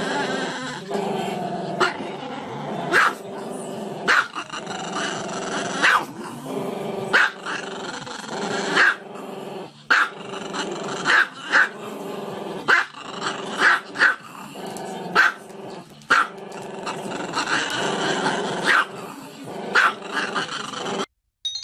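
Small dog with its head thrown back, giving sharp barks about once a second with drawn-out growling cries held in between. The sound cuts off abruptly just before the end.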